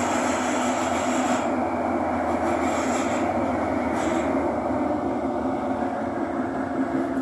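Thomson-East Coast Line metro train running between stations: a steady rumble and roar of wheels and motors, with a high hiss that drops away about a second and a half in.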